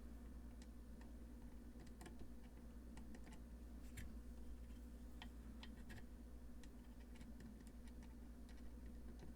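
Faint, irregular light clicks and taps of small parts being handled, over a steady low hum.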